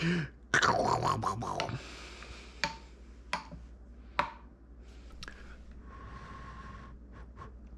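Handling noises: a scraping, rustling stretch, then a few separate sharp clicks or taps.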